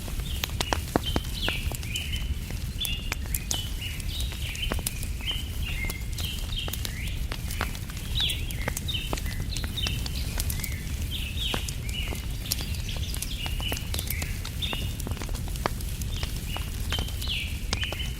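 Wood fire crackling with frequent sharp pops over a steady low rumble, while small birds chirp almost continuously.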